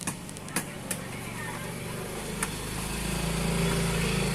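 An engine running steadily, getting louder from about halfway, with a few sharp clicks over it.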